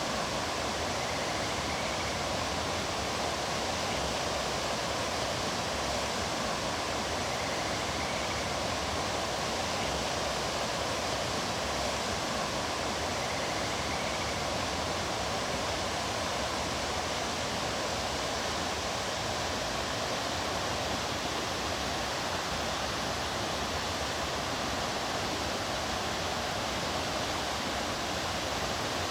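Mountain stream flowing over rocks: a steady rushing of water.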